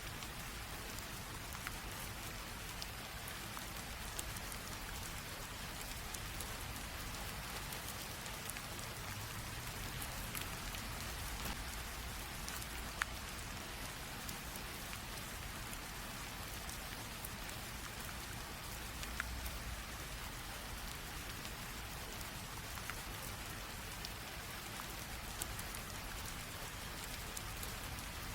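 Light rain drizzle falling steadily, an even hiss with scattered individual drops ticking through it, one a little sharper about halfway through.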